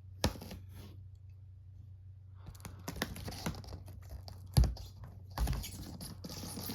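Knife cutting into a cardboard box: a click, a pause, then a scratchy run of slicing and clicking with two heavier thumps in the middle, over a steady low hum.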